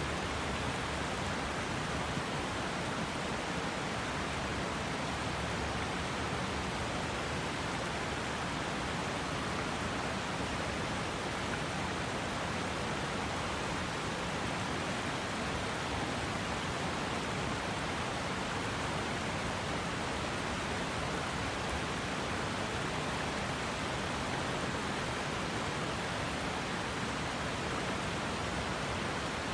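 River water flowing steadily, an even hiss-like rush with no separate splashes or changes.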